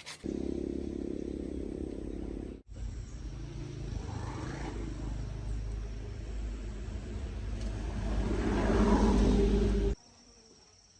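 A small engine running steadily, in two edited segments. It grows louder near the end, then cuts off suddenly about ten seconds in.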